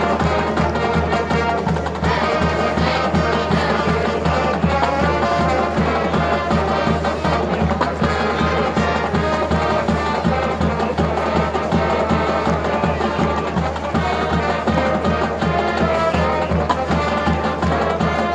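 Band music with brass and drums keeping a steady beat.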